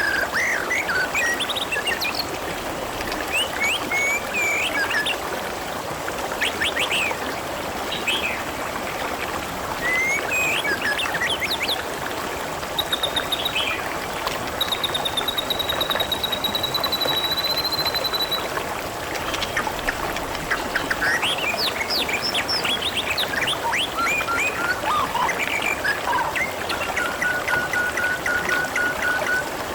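Water trickling and splashing steadily, with small birds chirping and whistling over it. A long high trill comes a little past the middle, and a lower trill near the end.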